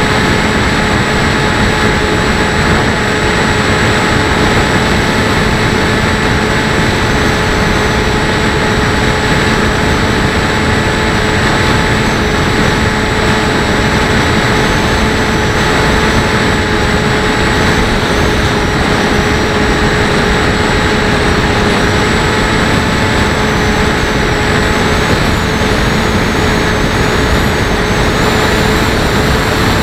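Bixler 1.1 RC plane's brushless electric motor and pusher propeller running at steady throttle, a constant whine with several steady tones, over a loud rush of wind and airflow on the plane-mounted camera's microphone.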